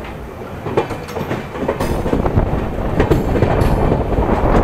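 Brahmaputra Mail passenger train running, heard from an open coach door: its wheels clatter on the track with many short clicks, and the noise grows louder about a second in.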